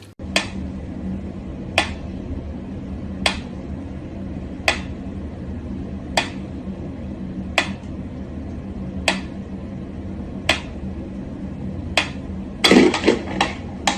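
Sharp clicks about every second and a half over a steady low hum, then a quick flurry of louder knocks near the end.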